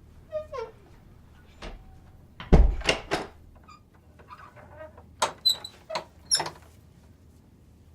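Door sounds: a short falling creak, then a heavy thud about two and a half seconds in, followed by several sharp clicks of a latch or handle.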